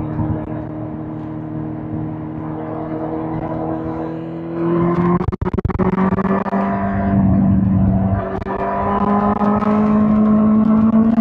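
Suzuki GSX-R1000 K5's inline-four engine under way: it pulls steadily for a few seconds, then revs up. About five seconds in it drops for a quick upshift, then comes back louder, its pitch climbing again as the bike accelerates in the next gear.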